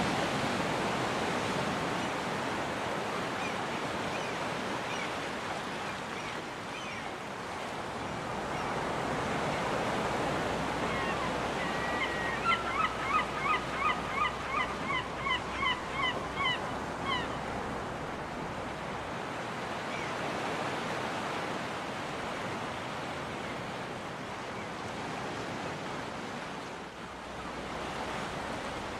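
Surf washing steadily onto a beach, with a gull calling: a few single calls, and about halfway through a quick series of about a dozen calls lasting some five seconds.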